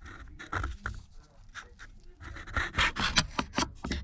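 Hands rubbing and pressing on the opened tablet's battery and frame: a run of irregular scuffs and light knocks, louder in the second half.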